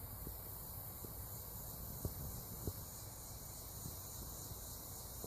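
Crickets chirring steadily, with a few scattered clicks.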